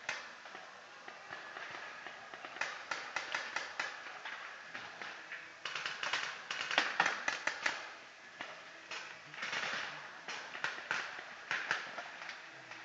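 Paintball markers firing in rapid strings of sharp pops, several bursts a few seconds apart, the loudest in the middle.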